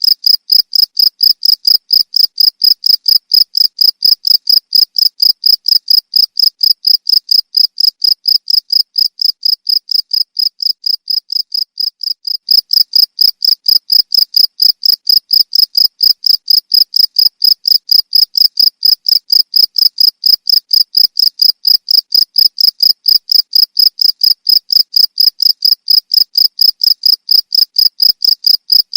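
Cricket chirping, a high, evenly pulsed trill of several chirps a second that fades a little partway through and comes back to full strength about twelve seconds in.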